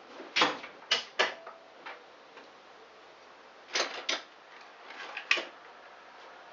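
A metal hand tool clicking and scraping against the engine's drive sprocket as it is pried off: several short, sharp clicks at uneven intervals.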